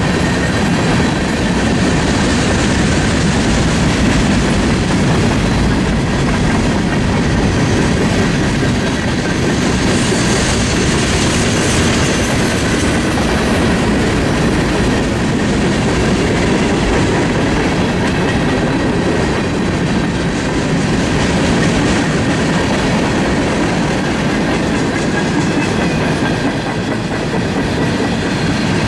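Freight train cars rolling past at close range, with a steady rumble and the clickety-clack of wheels over the rail joints. A brighter, hissier patch comes about ten seconds in.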